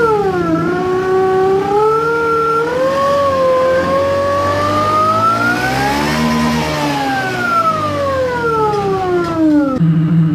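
Motorcycle sound booster playing a simulated big-bike engine note through its speaker, revving: the pitch dips, climbs slowly to a peak about six seconds in, and falls back over about four seconds. Near the end it cuts abruptly to a steady idle note.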